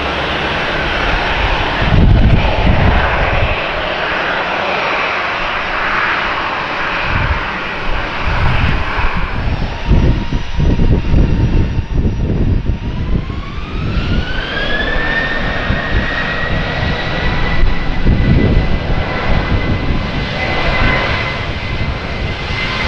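Boeing 737-800's CFM56 turbofan engines spooling up to high thrust: a steady fan whine rises steeply about halfway through and then holds high over a loud jet roar. Wind buffets the microphone in low thumps throughout.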